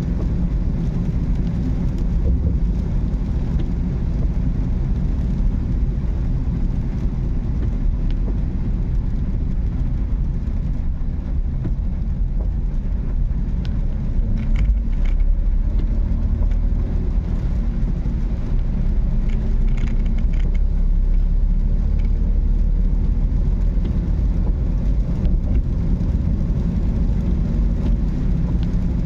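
Car driving on a city road: a steady low rumble of engine and tyre noise.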